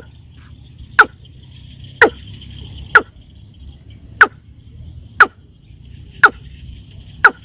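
A bird call repeated about once a second: each one a short, sharp note sweeping steeply downward in pitch. A faint steady high buzz runs underneath.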